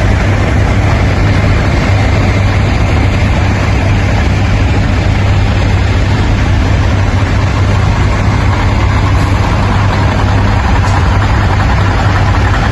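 1977 Ford crew cab pickup driving at steady speed: constant engine drone with a strong low hum, mixed with road and wind noise.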